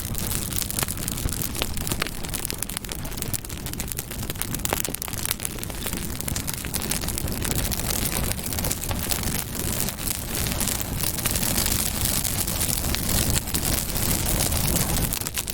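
Campfire burning with steady dense crackling and popping over a low rumble of the flames.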